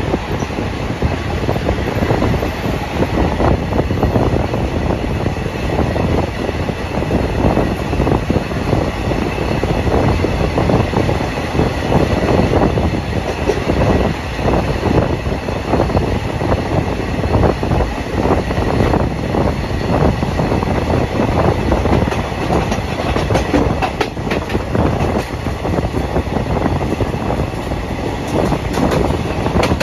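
Express passenger train running along the track, heard from on board: a steady rumble of coach wheels on the rails with irregular clatter and knocks from the track.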